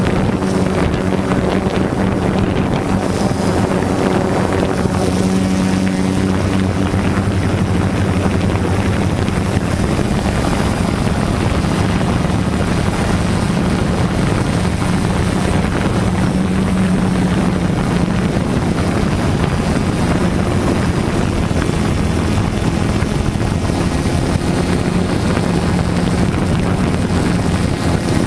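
Quadcopter drone's motors and propellers humming steadily, with wind rushing over the microphone.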